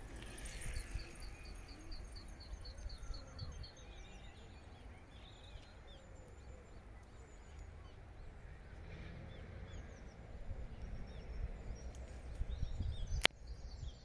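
Birds chirping: a quick run of repeated high notes in the first few seconds, then scattered chirps, over a steady low rumble. A single sharp click about a second before the end.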